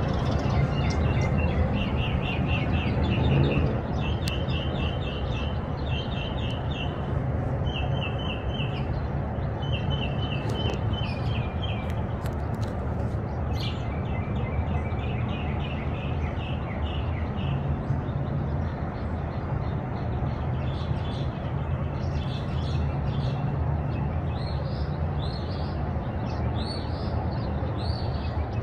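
Small birds singing: quick repeated trilling phrases through the first half, then short rising chirps near the end, over a steady low rumble.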